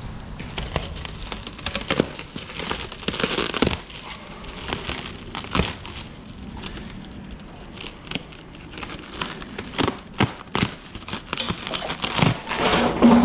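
Packaging crinkling and rustling as it is handled and pulled open, with scattered sharp clicks and knocks.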